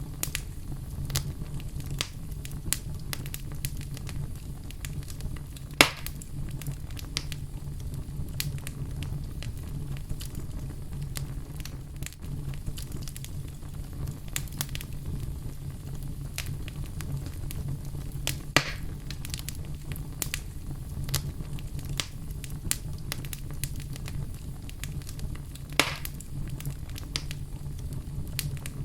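Wood fire burning in a fireplace: steady small crackles over a low rumble, with three louder pops, about six seconds in, past the middle, and near the end.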